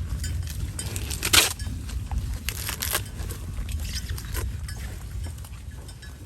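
A cow tearing and chewing banana leaves: irregular crunching and ripping crackles, the loudest about a second and a half in.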